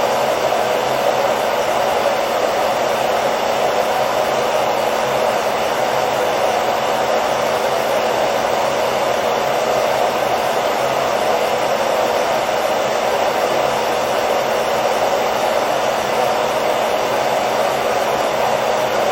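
Hair dryer running steadily, a constant whooshing noise of fan and airflow with a faint steady hum, played as white noise to help a baby sleep.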